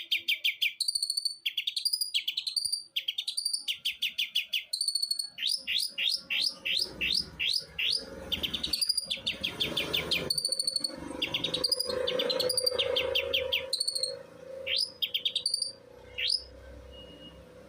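Long-tailed shrike (cendet) singing continuously: a fast string of sharp chirps, each sweeping down in pitch, running together into rapid trills, then stopping near the end. A faint steady hum sits underneath from about halfway in.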